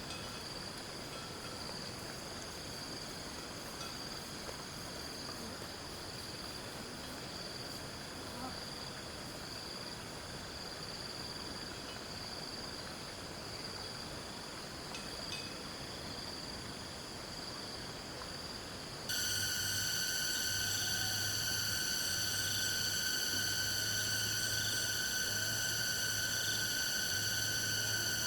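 Insects chirring steadily in a continuous high chorus. About two-thirds of the way through, the sound jumps abruptly to a louder, denser insect chorus, with a low hum pulsing on and off beneath it.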